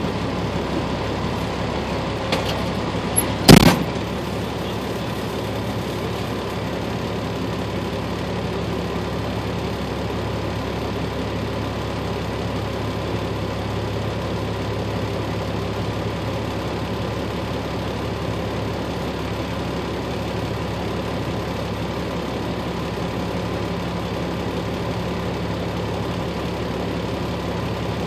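Vehicle engine idling steadily, heard from inside the cabin, with one loud sharp knock about three and a half seconds in.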